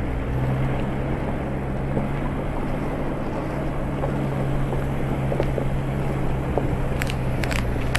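Off-road 4x4 vehicle driving along a rough dirt track, its engine running with a steady low drone. Near the end, a few sharp clicks and knocks come in over the engine.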